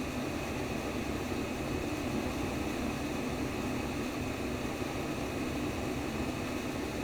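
Simulated womb sound: a steady, even rushing noise, strongest in the low-middle range.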